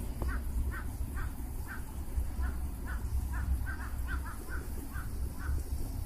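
A bird calling in a run of short repeated notes, about two a second, stopping shortly before the end, over a steady low rumble.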